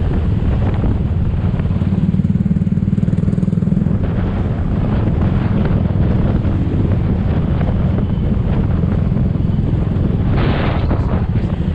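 Motorbike (scooter) riding through city traffic: steady engine and road rumble with wind buffeting the microphone. A brief louder noisy rush comes near the end.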